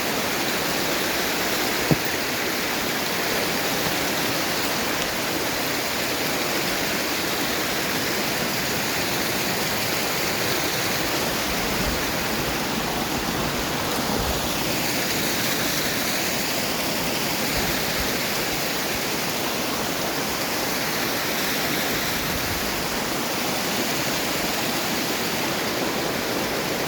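Waterfall rushing steadily, with one short click about two seconds in.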